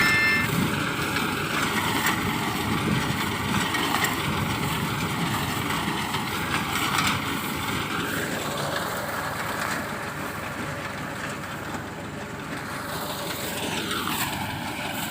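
Tractor engine and harvesting machinery running steadily while cutting wheat, a dense continuous machine noise that shifts in tone a little as the machine moves.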